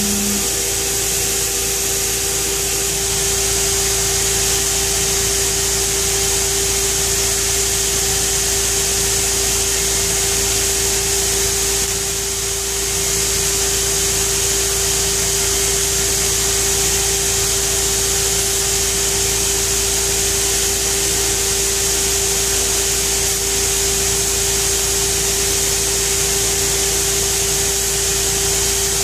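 Pheer 327 2x72 belt grinder running steadily at speed: a constant motor whine under the hiss of the moving abrasive belt.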